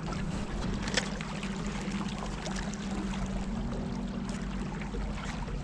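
Motorboat under way: the outboard engine runs with a steady, even hum while water rushes along the hull, with a single sharp click about a second in.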